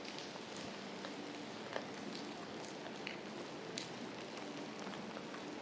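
Steady rain falling, with scattered louder drops ticking sharply now and then.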